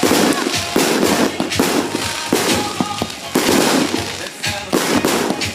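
Fireworks going off in a rapid run of bangs and dense crackling, in waves about once a second, with music playing underneath.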